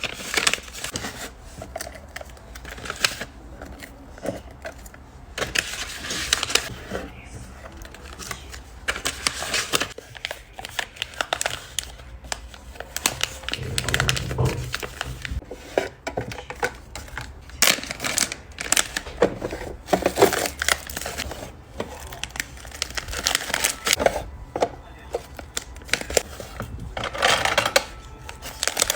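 Plastic packaging crinkling and rustling by hand, with many small clicks and taps: a press-on nail order being packed.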